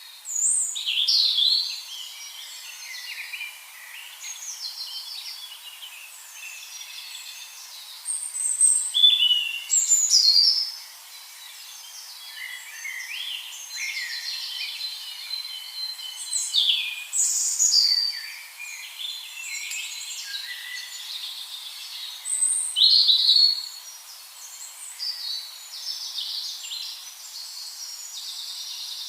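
Several birds calling and singing over one another in quick chirps, trills and short falling notes, with a faint steady hiss underneath. The song swells loudest in a few spots, near the start, around a third of the way in, and again past the middle.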